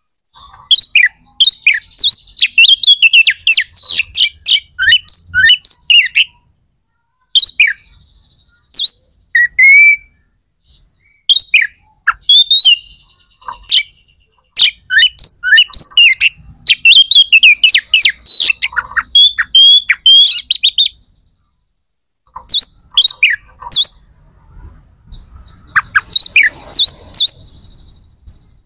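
A bird chirping and twittering in fast runs of short, mostly falling notes, with a few held high whistles, pausing now and then for a second or two.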